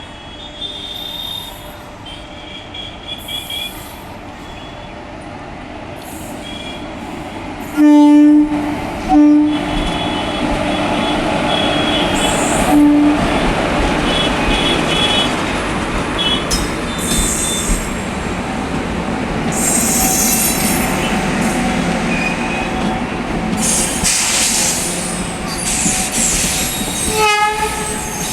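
WAP-4 electric locomotive horn sounding two short blasts, then the passenger train pulling out with a growing rumble of wheels on rail and some wheel squeal. Another horn sounds near the end.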